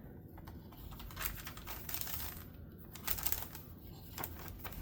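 Paper pages and tucked-in tags of a handmade journal rustling and crinkling as they are turned and handled, with a few sharp taps and clicks.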